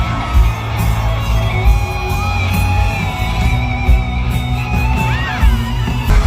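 Band music with guitar and a steady low beat, with high-pitched screams and whoops from a concert crowd over it.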